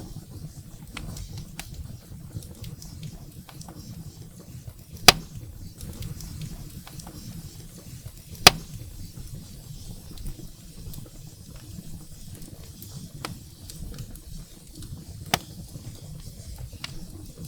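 Wood fire burning in a fireplace: a low steady rumble of flames under frequent small crackles, with two loud sharp pops from the burning firewood, one about a third of the way in and one about halfway, and a smaller pop near the end.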